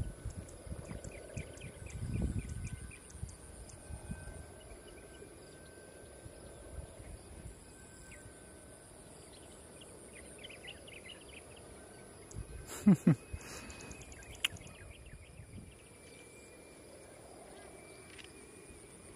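Outdoor ambience of steady high insect buzzing, with low gusts of wind rumbling on the microphone in the first few seconds. About two-thirds of the way through comes one short, loud sound with a falling low tone and sharp clicks.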